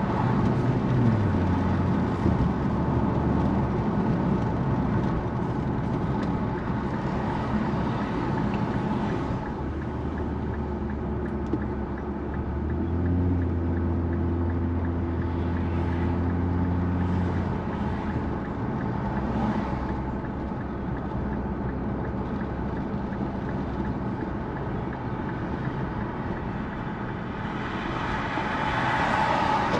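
Infiniti Q50 Red Sport's twin-turbo 3.0-litre V6 through its Helmholtz performance exhaust, cruising at a steady engine speed with a low, even note over road and wind noise. The engine note drops in pitch about a second in, as if the driver has eased off.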